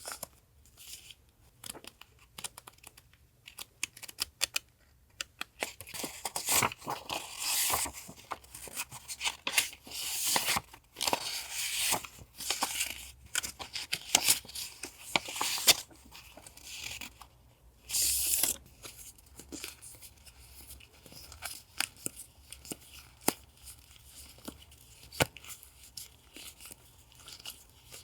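Close handling of paper journaling items and their packaging: rustling and tearing in bursts through the middle, with small sharp clicks and taps scattered throughout.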